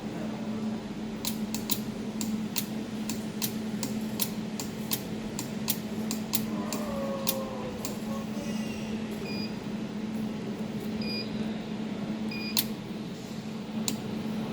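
Pulsed jewelry laser welder firing, each laser pulse a sharp click, several a second at first and then more spaced out. The machine's steady low hum runs underneath, and three short high beeps come from it about two-thirds of the way in.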